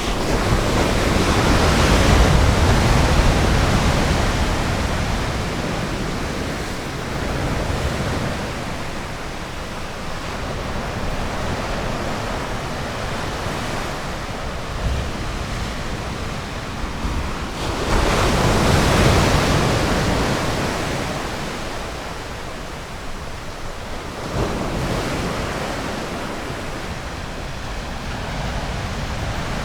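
Ocean surf breaking on a beach, a continuous wash that swells and eases. Bigger waves come in about two seconds in and again about eighteen seconds in, with a smaller one near the end.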